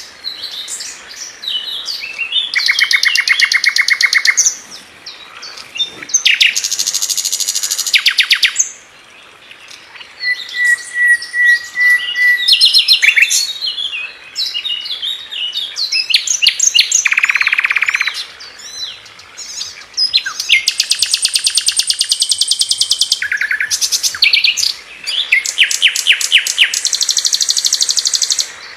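A sikatan londo (an Indonesian flycatcher) singing loudly, in rapid trilled bursts of tightly packed high notes ('tembakan'). Each burst lasts a second or two, and they are separated by shorter chattering calls and a brief steady whistle.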